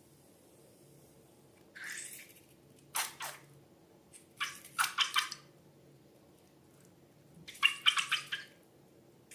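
Slime being squished and worked by hand, giving sticky, wet crackling squelches in four short bursts.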